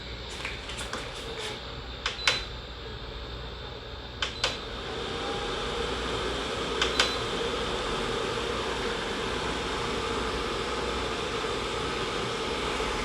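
2017 Keystone evaporative air cooler's fan running, with its control-panel buttons pressed several times, each a sharp click, some with a short beep. About five seconds in the fan steps up in speed and runs louder.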